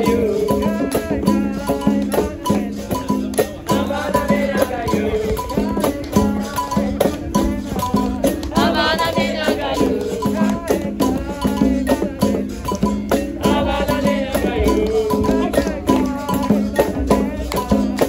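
Live capoeira roda music: a steady rhythm of hand percussion and a shaken rattle, with voices singing in repeated phrases over a steady pitched drone.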